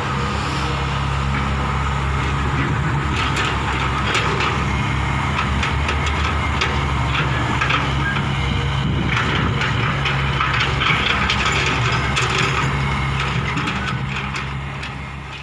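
Hitachi 120 excavator's diesel engine running steadily while it loads a dump truck, with a scatter of cracks and knocks from the digging and dumping of the load from about three seconds in. The sound fades out near the end.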